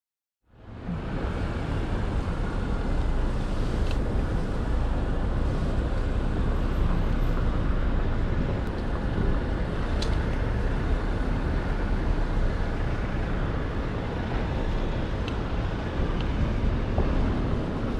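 Steady, low wind rumble on a chest-mounted GoPro's microphone while cycling through city traffic, starting abruptly about half a second in, with a few faint ticks.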